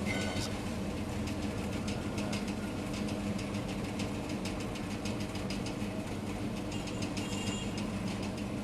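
Rain falling, heard as many scattered sharp drop ticks, over a steady low mechanical hum like an idling engine.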